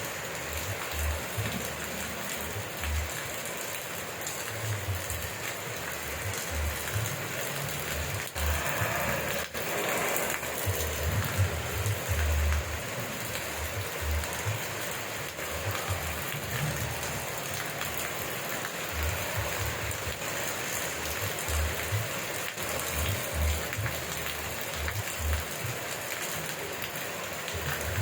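Steady rain, an even hiss of drops falling on surfaces, with irregular low thumps scattered through it.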